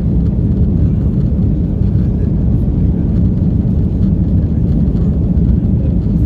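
Steady low rumble of an Airbus A330-343's Rolls-Royce Trent 700 jet engines and airflow, heard from inside the passenger cabin.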